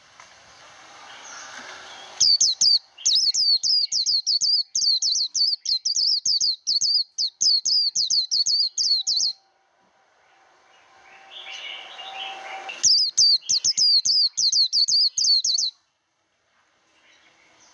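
White-eye singing the rapid 'líu' song: a soft, lower warble builds up, then breaks into a long run of fast, high, repeated notes. It stops, builds up softly again, and gives a second, shorter run.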